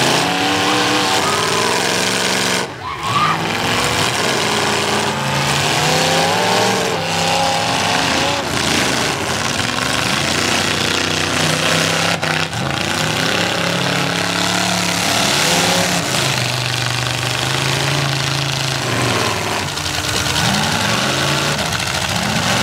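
Several demolition derby cars' engines revving up and falling back again and again, overlapping, over a steady dense noise.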